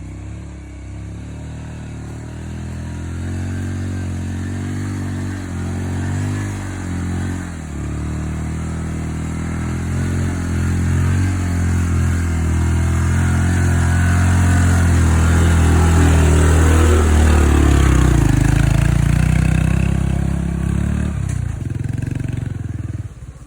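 Off-road motorcycle engine running under load, its pitch rising and falling with the throttle and growing louder to a peak about two-thirds of the way in. It drops and picks up again, then stops abruptly near the end.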